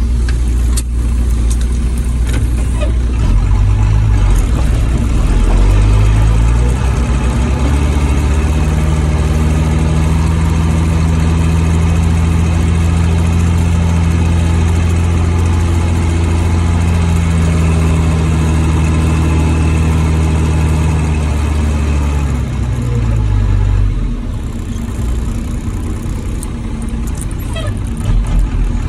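Old Ford dump truck's engine under way: it rises in pitch over the first several seconds as the truck pulls, runs steady for a long stretch, then drops away as it eases off near the end.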